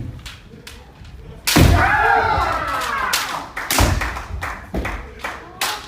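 Kendo sparring: sharp knocks and thuds of bare feet stamping on a wooden floor and bamboo shinai striking. The loudest impact comes about a second and a half in, with a drawn-out shouted kiai, and several more knocks follow near the end.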